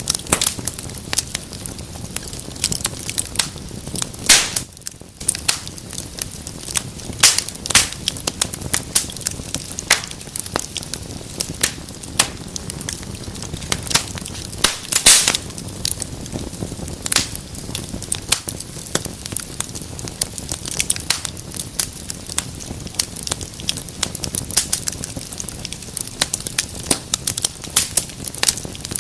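Wood fire in a fireplace crackling, with a constant scatter of small sharp snaps over the low rush of the flames. Louder pops stand out about 4, 7 and 15 seconds in.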